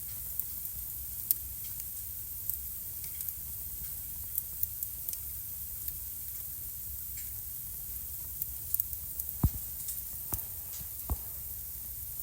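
Wood fire burning in a home fireplace: a steady hiss with scattered sharp crackles, and a few louder pops near the end.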